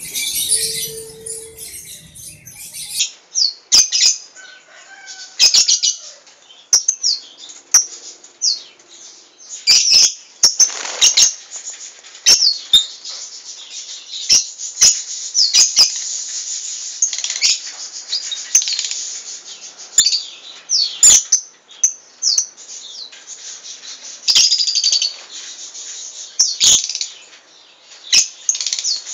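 A flock of lovebirds chirping and calling in rapid, overlapping high-pitched notes, with many sharp clicks scattered through it.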